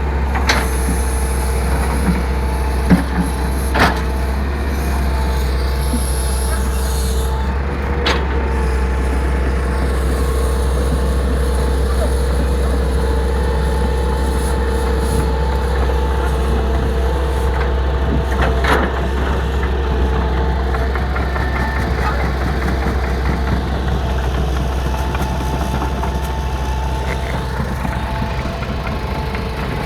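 Heavy machinery engine running steadily, a constant low drone, with a few sharp knocks or clanks now and then.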